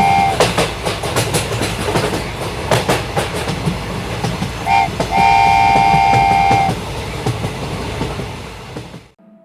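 Train running with a steady rumble and clicking wheels, its multi-tone horn giving a short toot about halfway through and then a long blast; the running sound fades away near the end.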